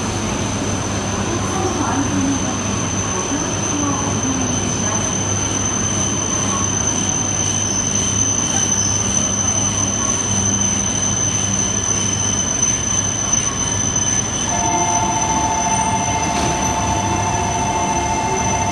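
Shinkansen train moving slowly past the platform: a steady rumble with a thin high whine over it. About three-quarters of the way through, a steady two-note tone starts and holds.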